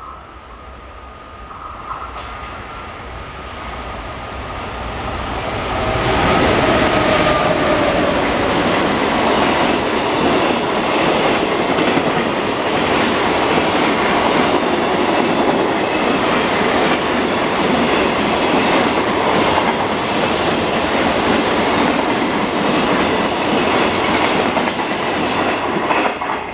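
Red EF510 electric locomotive of a freight train approaching and running through a station, its sound growing for about six seconds, with a whine that falls in pitch as it passes. A long string of container wagons then rumbles past with regular wheel clacks over the rail joints, easing off at the very end.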